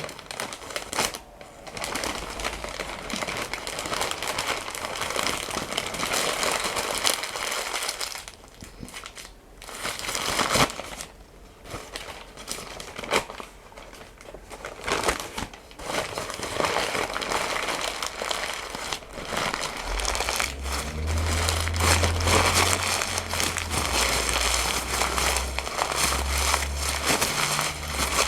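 Paper being crinkled and crumpled close to the microphone, in long rustling stretches with short pauses. From about two-thirds of the way in, low thuds of handling join it.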